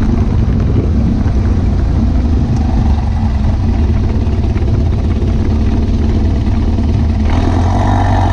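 Car engine and road noise while driving, steady and loud with a deep low hum. A little over seven seconds in, the sound grows fuller in the middle range.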